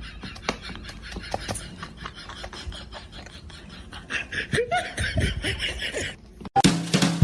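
A person laughing in short fits, louder in the last couple of seconds, then cut off abruptly by upbeat music near the end.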